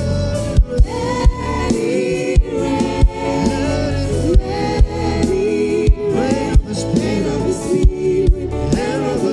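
Live gospel worship music: singers and a choir with a band, over a steady beat.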